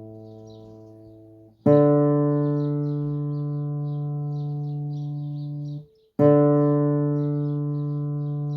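Acoustic guitar tuning reference: an open string plucked and left to ring, then damped, in slow even strokes. The previous, lower note fades out and stops, and the next string up is plucked about a second and a half in, stopped, and plucked again about six seconds in. This is standard tuning, and the new note is the D string.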